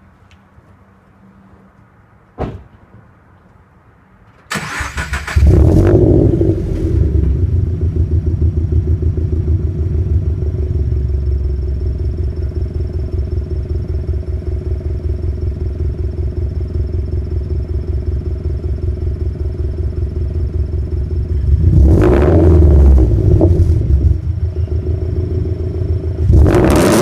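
Toyota 86 flat-four with an unequal-length catless header and a 3-inch headerback exhaust being cranked over and starting. It flares loud, then settles into a loud idle with the uneven boxer rumble. Near the end it is revved briefly twice.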